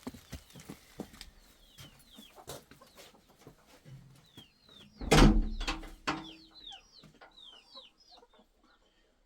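Chickens cheeping in short, high, falling peeps, repeated many times, with scattered clicks and knocks. A loud, dull thump comes about five seconds in.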